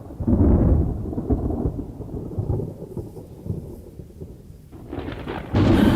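Thunder rumbling: a loud low rumble that fades away over a few seconds, then a second rumble building up near the end.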